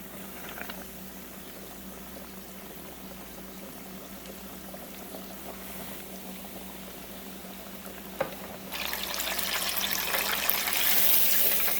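Chicken deep-frying in hot oil: a low, steady bubbling hiss, then a click and, a moment later, the sizzle jumps abruptly to a loud, dense crackle for the last few seconds.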